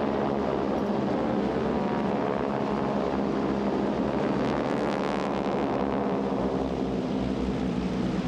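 A formation of North American Harvard, T-6 Texan and SNJ trainers flying past: the steady drone of many nine-cylinder radial engines, about 600 hp each, and their propellers, turning raspier about five seconds in.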